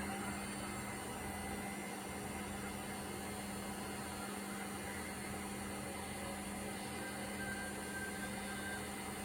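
Indesit washing machine on its spin cycle at speed, the drum running with a steady hum and no grinding from the drum bearing, which the seller takes as a sign the bearing is sound.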